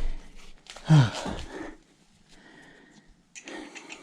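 A man's short vocal sound, falling in pitch, about a second in. Light rustling and handling noises follow near the end.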